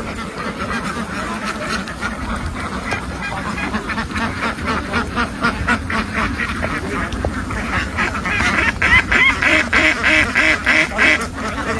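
A large flock of farmed ducks quacking together in a dense, continuous chorus that grows louder about eight seconds in.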